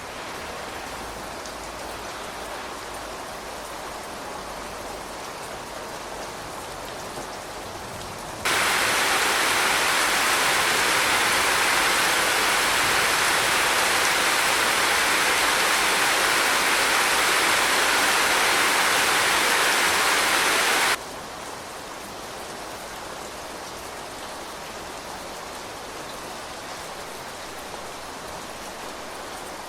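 Steady rain falling. A much louder, heavier downpour cuts in suddenly about eight seconds in and stops just as suddenly about twelve seconds later, leaving the softer rain again.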